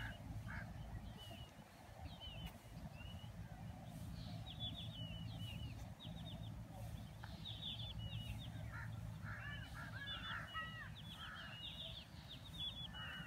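Birds calling: repeated bursts of short, high, falling chirps, with lower warbling calls about nine to eleven seconds in, over a steady low hum.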